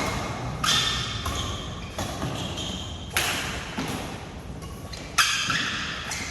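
Badminton racket strings hitting a shuttlecock in a rally, a sharp ringing hit every second or so with some lighter ones between, echoing in a large hall.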